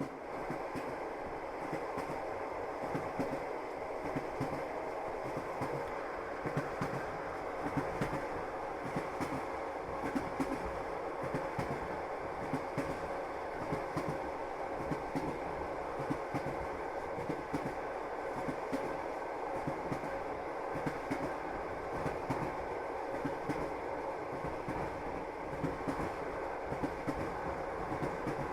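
Passenger train running along the line, heard from inside the carriage: a steady rumble with the clickety-clack of wheels knocking over rail joints, recurring throughout.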